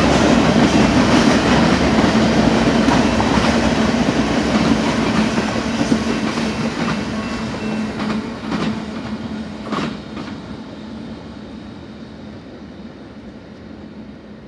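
Freight cars of a Union Pacific train rolling past, wheels clicking over the rail joints. The sound fades steadily as the end of the train passes and goes away, with a few sharper clicks before it dies down.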